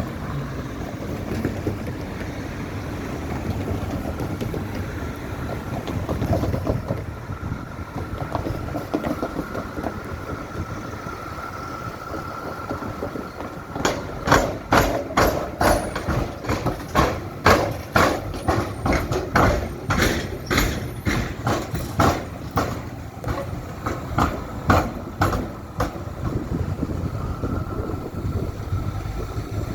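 A rail vehicle rumbles past with a faint steady whine. From about halfway through, a long run of sharp wheel clacks follows, roughly two a second and some in close pairs, as the wheels cross the tram-and-railway crossing. The clacks die away a few seconds before the end.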